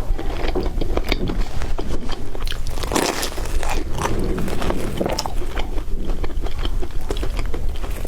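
Close-miked crunching of crispy bread being bitten and chewed: dense crackles with louder crunchy bites about three seconds in and again a little later.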